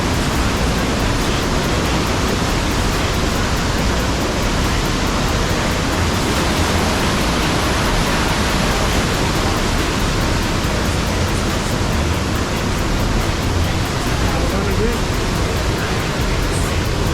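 Waterfall close by: a loud, steady rush of falling water with no breaks.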